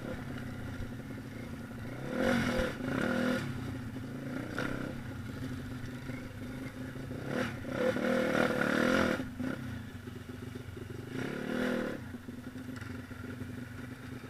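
Small single-cylinder pit bike engine running at a steady low speed and revved up in short bursts several times. The longest rev comes about seven and a half seconds in and lasts nearly two seconds.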